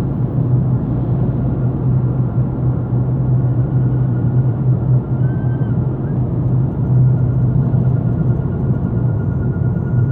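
2007 Volkswagen Passat driving, with steady road and engine rumble and a thin, steady high-pitched whine over it that briefly rises in pitch a little past halfway. The owner reports that this whine stops when the brake pedal is touched lightly.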